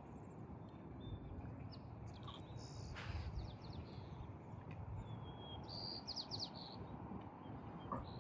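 Small birds chirping: scattered short high calls, with a quick run of them about six seconds in, over a steady low background noise.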